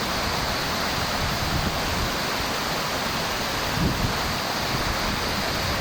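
Steady rushing of spring water pouring out and running as a stream, an even hiss with no breaks.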